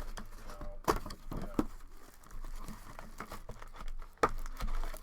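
Cellophane wrapping of a trading card cello pack crinkling and tearing as it is opened by hand, with a few sharp snaps.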